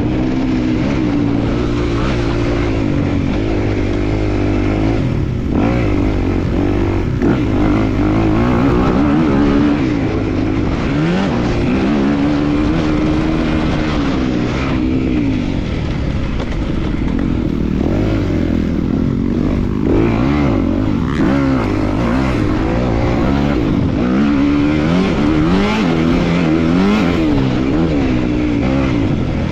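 A 250-class motocross bike's engine ridden hard, its pitch climbing and dropping again and again as the throttle is opened and rolled off.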